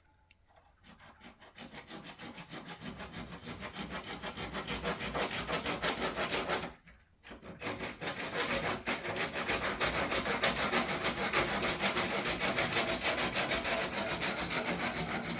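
Hand sawing: fast, steady back-and-forth strokes that build up, stop briefly about seven seconds in, then start again louder.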